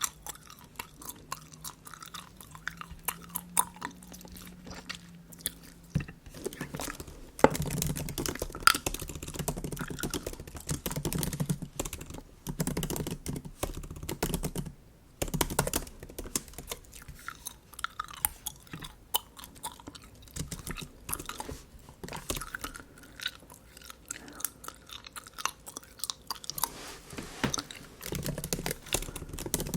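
Bubble gum chewed close to the microphone, in repeated wet smacks and small sharp clicks.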